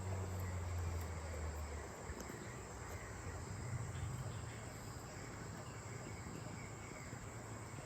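Steady high-pitched drone of rainforest insects, with a low hum that stops about two seconds in.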